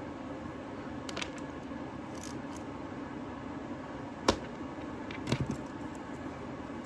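Steady low room hum with a single sharp click about four seconds in and a quick run of three knocks a second later, from handling a cordless flat iron during hair straightening.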